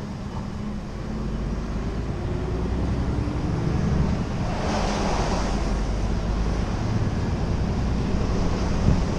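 Scania R490 truck driving: steady low diesel engine drone with road noise, growing louder over the first few seconds. A brief rushing whoosh swells and fades about five seconds in.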